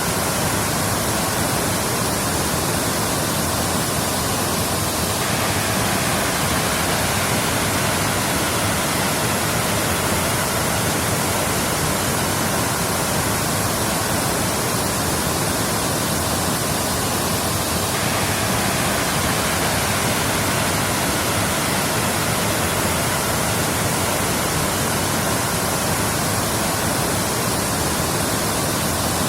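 Waterfall: a steady, full rush of falling water, even and unbroken throughout.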